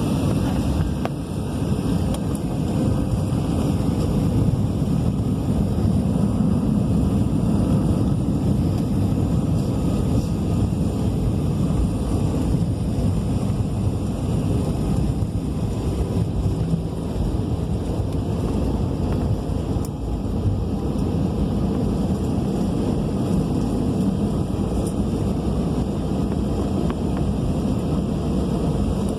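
Steady low rumble inside the cabin of an Airbus A319 rolling on the ground after landing: jet engine noise and the wheels on the pavement, with no sudden changes.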